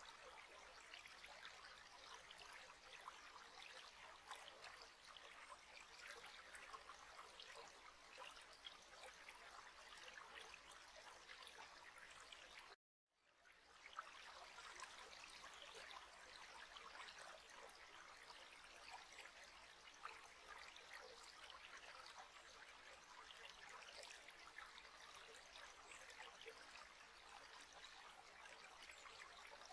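Faint, steady trickle of running water, like a small stream. It cuts out suddenly for about half a second roughly midway and fades back in.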